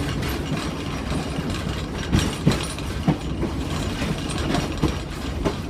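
Excursion train rolling along the track, heard from aboard: a steady low rumble with irregular clanks and clicks.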